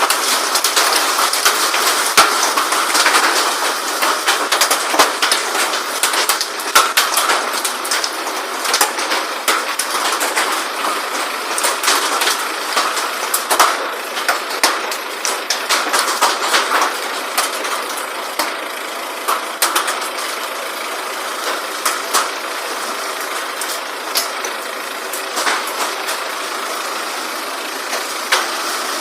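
Hail falling hard: a dense, continuous clatter of hailstones, with many sharper single hits standing out throughout.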